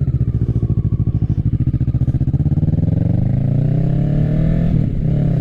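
Kawasaki Ninja 650's parallel-twin engine through an M4 full exhaust, pulsing at low revs and then rising steadily in pitch as the bike accelerates from about halfway in, with a brief dip near the end.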